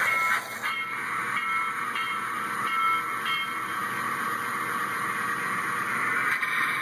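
Model steam locomotive's RailSounds sound system playing through a tiny speaker: a locomotive bell strikes about every two-thirds of a second for the first three or four seconds, over a steady, thin, high-pitched steam hiss.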